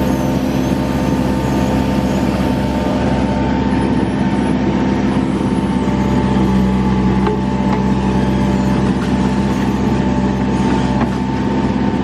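Case 580 Super N backhoe loader's diesel engine running at a steady speed.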